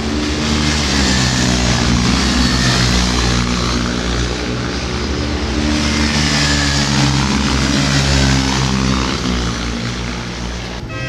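Racing motorcycles at high revs passing on a circuit. Engine noise swells twice as bikes go by.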